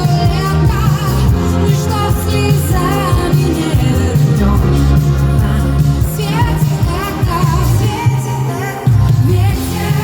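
Pop song playing, with a steady beat, bass and a wavering sung melody line.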